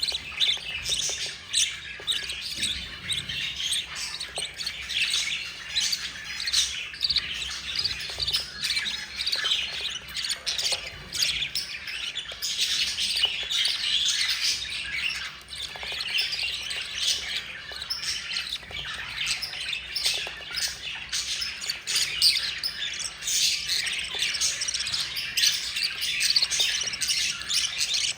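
Budgerigar chicks and their mother chirping and squawking in a dense, unbroken chatter of short calls. This is typical of chicks begging at feeding time.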